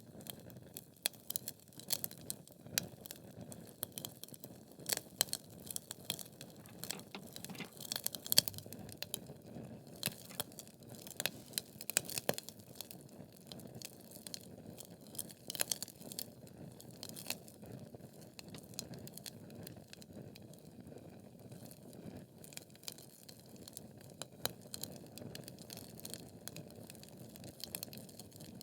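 Wood logs burning in a fireplace: a soft steady rush of flame under irregular sharp crackles and pops, the crackles thicker in the first half with one loud pop at about eight seconds.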